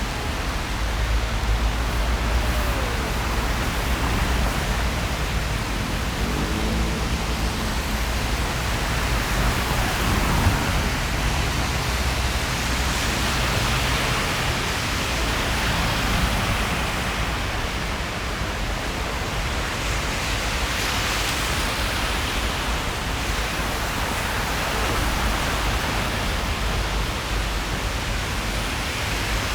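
Steady rain falling on a city street: an even hiss with a low rumble underneath.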